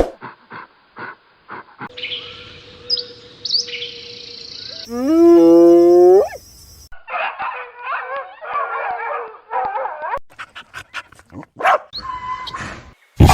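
A run of short animal sound clips. The loudest is a dog howling about five seconds in, one call of about a second that rises in pitch, with chirping, warbling calls and scattered clicks before and after it.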